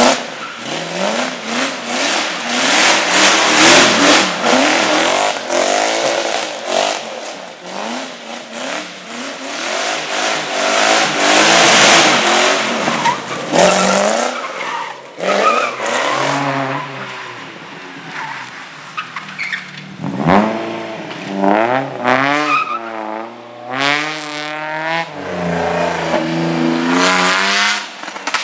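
Competition car engine driven hard through a slalom, its revs repeatedly climbing and dropping with gear changes and throttle lifts, with tyres squealing and skidding on the turns, loudest near the middle.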